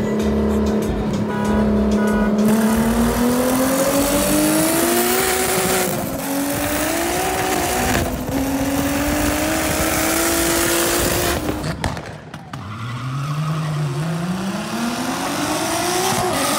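Turbocharged VR6 Volkswagen Jetta engine at full throttle, its pitch climbing through each gear and dipping at the shifts, about six and eight seconds in. After a sudden cut near twelve seconds a second run starts, the pitch rising again from low.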